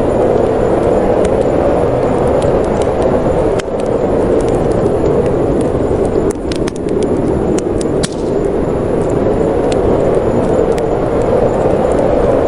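Steady rush of snowstorm wind with a wood fire crackling over it. Sharp pops are scattered throughout, with a cluster of them about six to eight seconds in.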